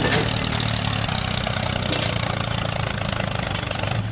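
Mini tractor's small engine or motor running steadily with a low hum.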